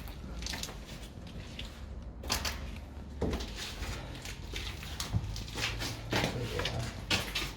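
Irregular scuffs, crunches and knocks, with a low rumble underneath.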